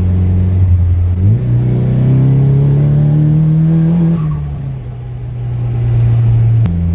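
Nissan S15 Silvia's turbocharged SR20DET four-cylinder engine accelerating under boost, its pitch rising steadily for about three seconds. It then eases off and settles to a steady drone, dropping lower again near the end.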